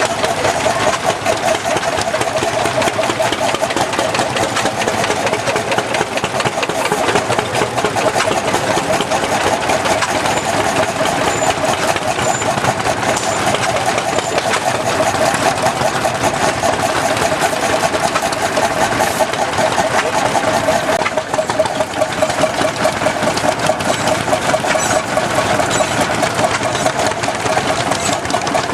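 Hot-bulb tractor engines running, a dense, rapid knocking that goes on steadily.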